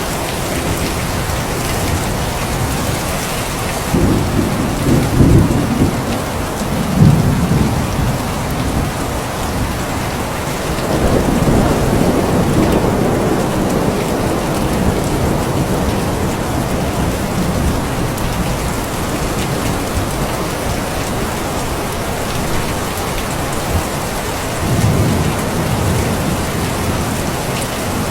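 Steady rain with low rolls of thunder rumbling in about four seconds in, again around eleven seconds, and once more near the end.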